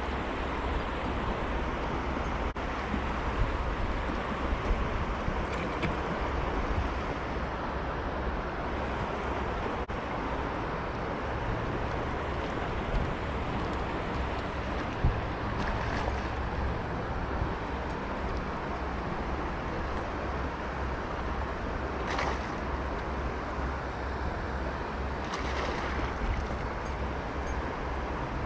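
Steady rush of flowing river water, with wind rumbling on the microphone and a few brief louder swishes.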